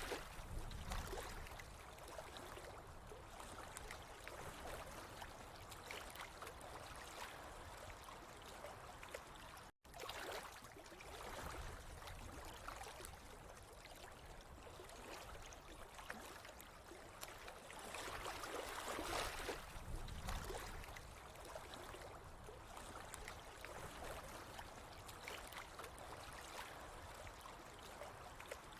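Quiet running water flowing steadily, rising and falling in slow swells. The sound breaks off for an instant about ten seconds in.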